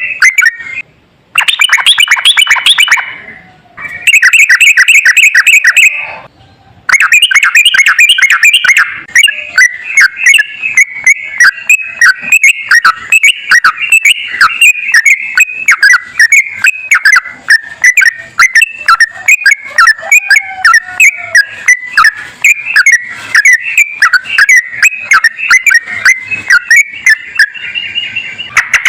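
Sooty-headed bulbul singing a loud, fast, unbroken chattering song of rapidly repeated notes, with short breaks about a second in and again around six seconds in.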